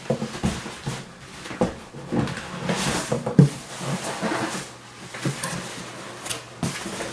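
Cardboard box and packing being handled: irregular rustling, scraping and knocks as the boxed NAS unit is worked out of its packaging.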